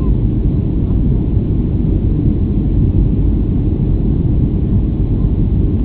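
Airliner in flight after takeoff: the steady, loud, low rumble of its engines and rushing air.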